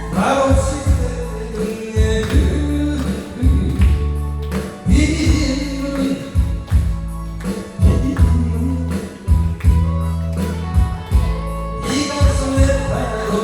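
A person singing through a microphone over loud accompanying music with a heavy, pulsing bass beat.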